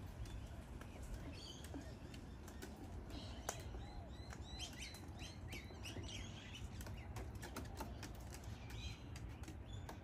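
Soft bird chirps and twittering, many short high notes, with scattered sharp clicks, the loudest about three and a half seconds in, over a steady low background rumble.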